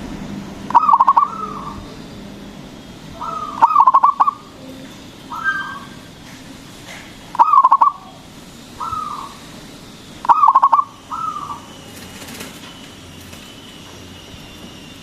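Zebra dove (perkutut) cooing loudly, a repeated song phrase every few seconds: each a fast rolling trill followed by short clear coo notes.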